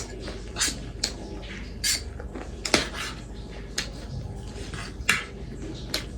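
Eating at a meal close to the microphone: a utensil clicks and scrapes against a dish in short, irregular strokes, about eight in all.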